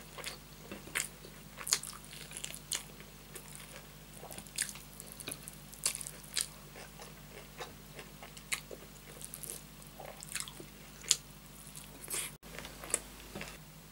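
Close-miked chewing of rice and spicy beef curry: irregular wet mouth clicks and smacks, with fingers squishing and gathering rice on the plate.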